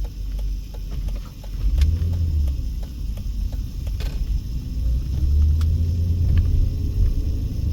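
Car's engine and tyre rumble heard from inside the cabin while driving: a steady low drone that swells about two seconds in and again from about five seconds in.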